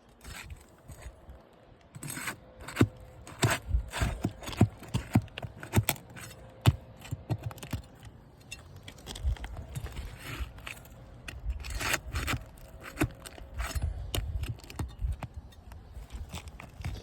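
Flat bar prying and scraping under older asphalt shingles to lift them and reach the roofing nails: an irregular run of sharp metallic clicks and scrapes, busiest from about two seconds in.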